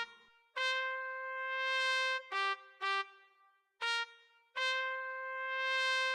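Music: a lone trumpet melody as the intro of a rap beat, with two long held notes that swell louder and three short notes between them, and no drums.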